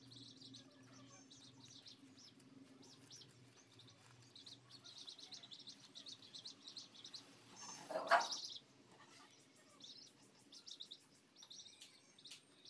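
Small birds chirping over and over in short high notes, with one louder downward-sweeping sound about eight seconds in and a faint low hum during the first half.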